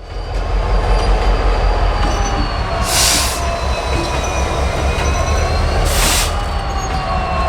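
Diesel locomotive of a freight train rumbling as it moves, with thin squeals from the wheels on the rail. Two short bursts of hiss come about three and six seconds in.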